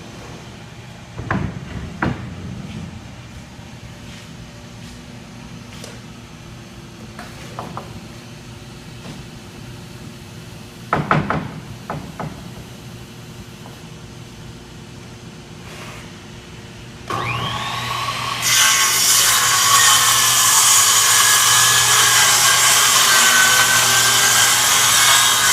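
A few scattered knocks, then a power saw's motor starts and its blade cuts steadily through a sheet of plywood, loud and whining, for the last several seconds.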